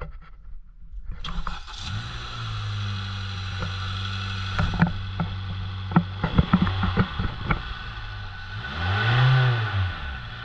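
2018 Honda Civic 2.0L four-cylinder engine starting about a second in and settling to a steady idle, with a few sharp clicks and knocks over it. Near the end it is revved once, rising and falling, then drops back to idle.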